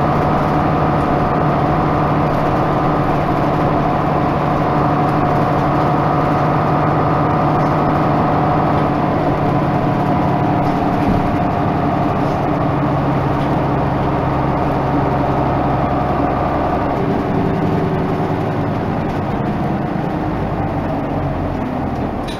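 Isuzu Erga Mio (KK-LR233J1) diesel bus running under way, its engine note holding steady for a long stretch, then shifting down and falling for the last few seconds.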